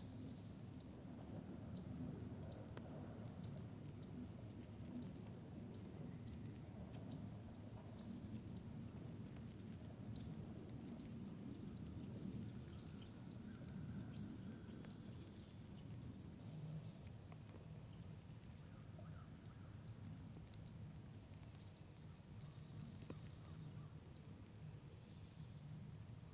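Faint small-bird chirps, short high notes repeated at irregular intervals, over a low steady background rumble.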